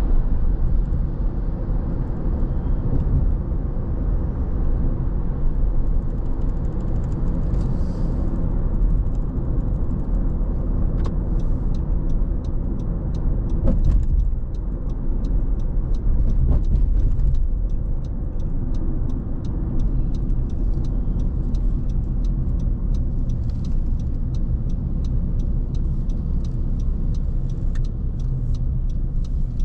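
A car driving, a steady low rumble of tyres and engine. From about a third of the way in, a faint, fast, regular ticking runs over it at two or three ticks a second.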